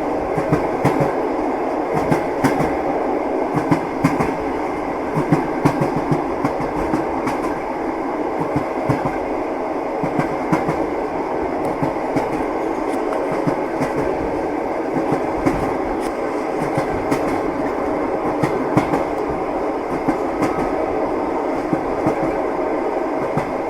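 Train wheels clacking over the rail joints over a steady rolling rumble, heard from inside a passenger carriage.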